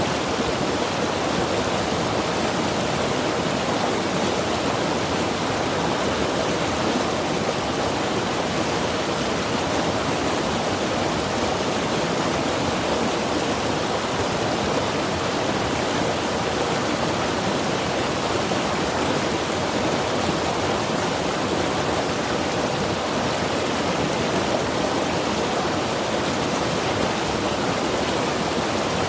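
Mountain river rushing steadily over rocks: a constant, even wash of flowing water with no breaks.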